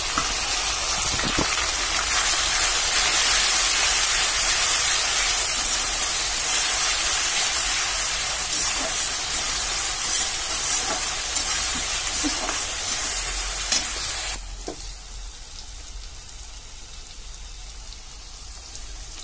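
Ginger-garlic paste and onions sizzling loudly in hot oil in a wok (kadai), stirred with a metal spatula. About three-quarters of the way through, the sizzle drops off abruptly to a quieter fry.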